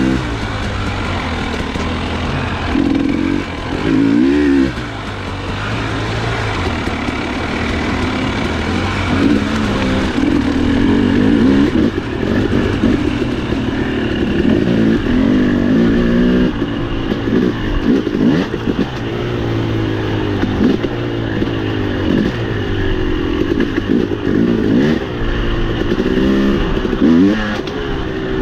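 Dirt bike engine running under load, its pitch rising and falling over and over as the throttle is opened and closed.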